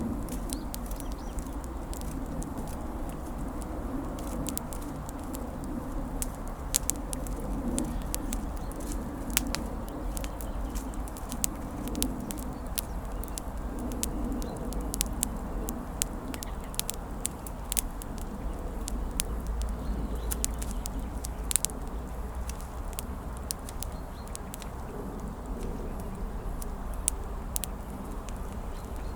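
A newly lit wood campfire crackling, with many irregular sharp pops and snaps, a few of them much louder.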